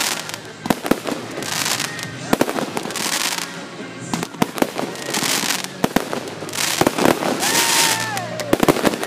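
Fireworks display: aerial shells bursting in a rapid, irregular run of sharp bangs, with stretches of crackling hiss from the bursts between them.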